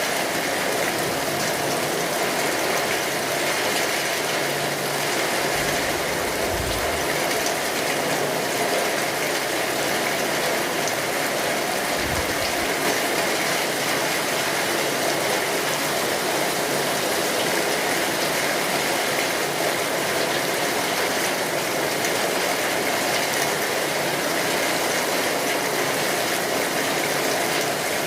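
Steady rain drumming on a tin roof, mixed with the crackle of a wood fire. Two brief low thuds come about six and twelve seconds in.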